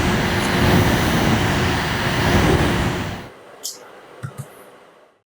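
Steady loud rushing of air with a faint hum, the kind of noise a small electric fan makes. It cuts off suddenly about three seconds in, and a few soft clicks follow.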